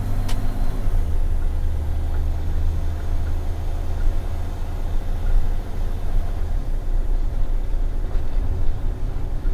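Box truck engine and road noise as the truck drives on: a steady low drone, with one sharp click just after the start and a shift in the low hum about six and a half seconds in.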